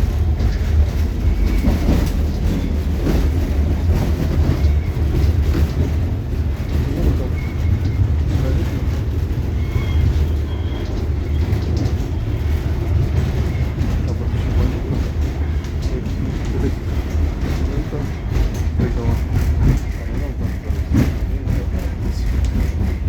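Narrow-gauge railway passenger car heard from inside while moving: a steady low rumble of the running gear, with frequent irregular knocks and rattles from the wheels and car body.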